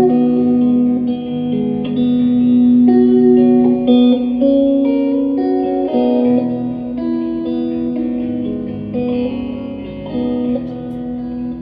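Live band music, an instrumental passage led by guitar: sustained, ringing notes with no singing, easing down in loudness toward the end.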